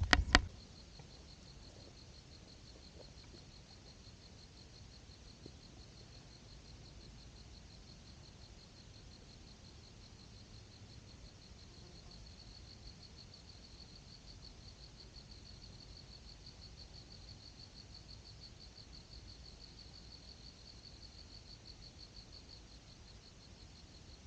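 Crickets chirping in a steady, rapidly pulsing high trill that runs on without a break. Two sharp knocks come right at the start.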